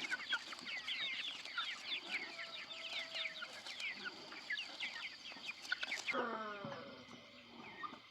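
Chickens clucking and calling, with many short high falling calls overlapping; about six seconds in the sound changes suddenly to a lower clucking call and grows quieter.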